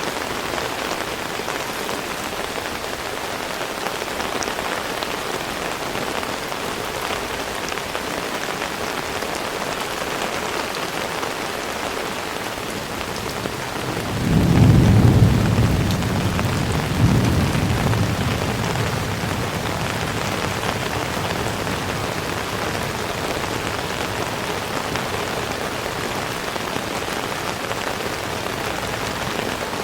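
Heavy rain falling steadily, with a roll of thunder about halfway through that rumbles low, swells twice and fades over several seconds.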